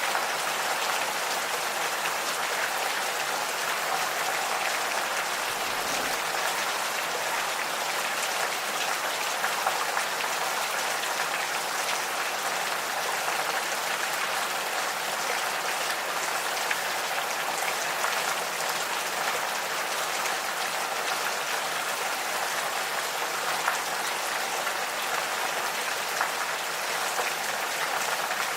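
Gentle rain falling steadily, with scattered individual drops ticking.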